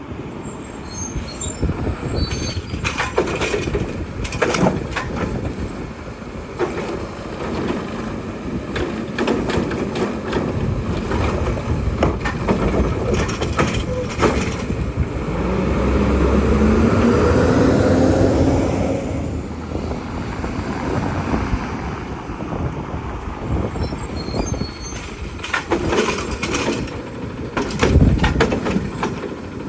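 Garbage truck at work: diesel engine running, with repeated knocks and clanks. The engine revs up with a rising pitch for a few seconds a little past halfway, and there is a heavy thump near the end.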